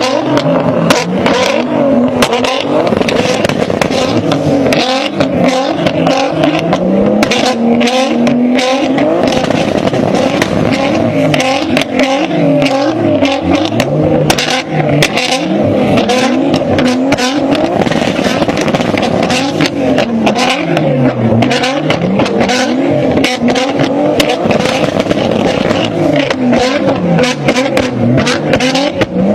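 Toyota Supra's turbocharged 2JZ inline-six at high revs, its pitch swinging up and down again and again, with popping and crackling from the exhaust throughout.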